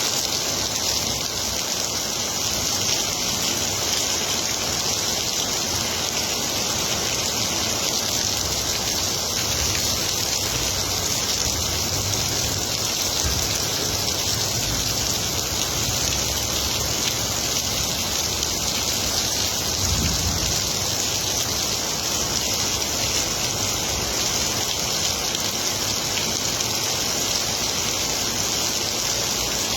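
Heavy rain falling steadily, an even hiss of downpour without a break.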